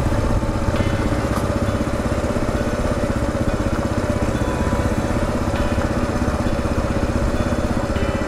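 Kawasaki KLR 650's single-cylinder four-stroke engine running at a steady speed, a fast, even thumping with no revving.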